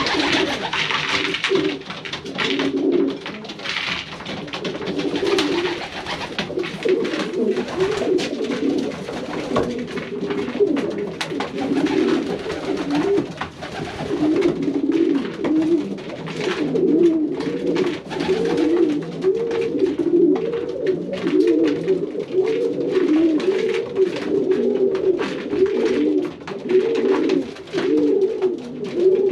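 Many pigeons cooing together in a loft, overlapping phrases that run on without a break and grow denser in the second half, with scattered sharp clicks among them.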